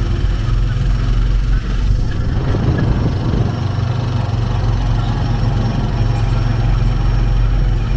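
Motorcycle engine of a Philippine tricycle (motorcycle with sidecar) running under way with a loud, steady low note, heard from inside the sidecar. The engine note briefly dips about two to three seconds in.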